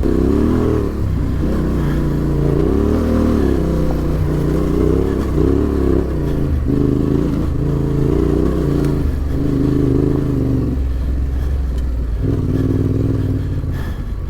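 Adventure motorcycle engine ridden off-road, the throttle opened and closed over and over so the revs rise and fall about once a second. The revs drop briefly near the end, then pick up again.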